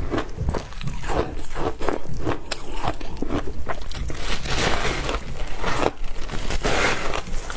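A person biting and chewing powdery frozen ice dusted with matcha powder close to the microphone: a run of quick, crisp crunches that grows denser and louder about halfway through.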